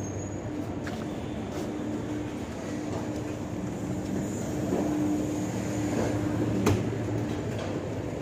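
Red-and-grey LHB passenger coaches rolling in along a station platform, with a steady hum and rumble and a few sharp clicks from the wheels over rail joints.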